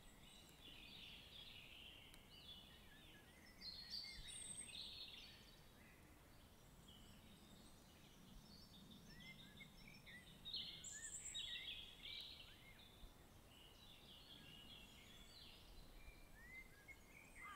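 Faint birdsong: several small birds chirping and trilling, with livelier bursts of song about four seconds in and again around ten to twelve seconds in.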